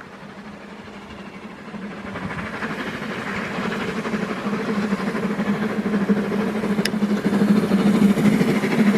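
LMS Jubilee-class three-cylinder steam locomotive 45596 approaching under power, its sound growing steadily louder throughout.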